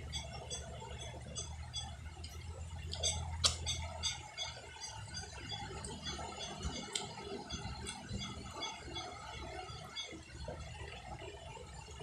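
Close-up chewing and mouth noises of a child eating by hand, with many small wet clicks and smacks and one sharper click about three and a half seconds in. A low hum runs underneath for the first four seconds.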